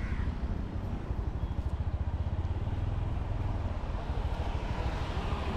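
Motorcycle engine running steadily under way, a continuous low rumble with quick even pulsing.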